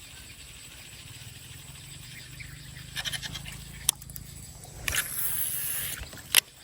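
A fishing cast: clicks from the reel, a hissing whir for about a second as line runs off the spool, then a sharp click as the reel is re-engaged.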